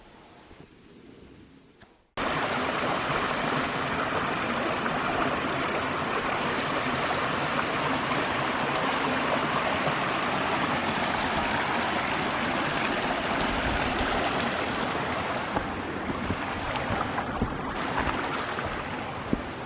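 Rushing water of a stream, a steady, loud, even rush that starts abruptly about two seconds in after a quieter stretch.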